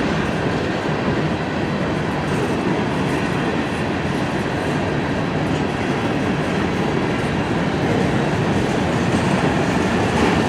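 Freight cars of a long mixed freight train rolling past. There is a steady rumble and rattle of steel wheels on the rail, growing slightly louder near the end.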